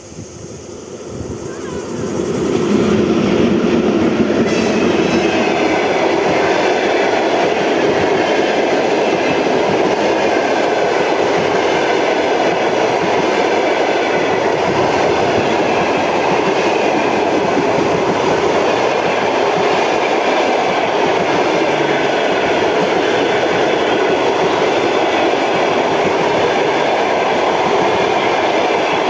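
A train approaching and then running past on the rails at close range. The noise builds over the first couple of seconds and then holds steady and loud.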